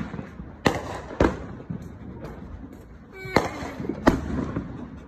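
Consumer fireworks going off: four sharp bangs spread over a few seconds, with smaller pops between them.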